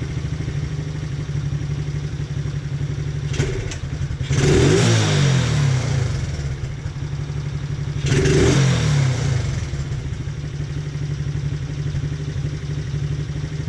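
Taotao 125 mini ATV's small single-cylinder four-stroke engine idling steadily, revved twice, about four seconds in and again about eight seconds in, each rev rising and dropping back to idle. It runs clean with no popping, its carburettor freshly readjusted after it was running too lean.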